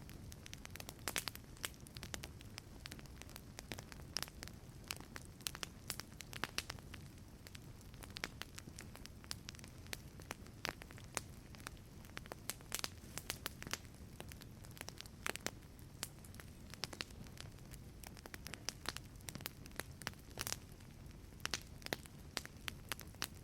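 Wood fire crackling in a fireplace: irregular sharp pops and snaps over a soft low rumble of the burning fire.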